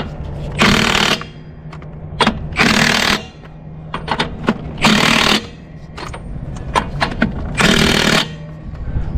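Impact wrench hammering in four short bursts, each under a second, as it tightens the lug nuts on a hub-piloted truck wheel. Sharp clicks come between the bursts, over a steady low hum.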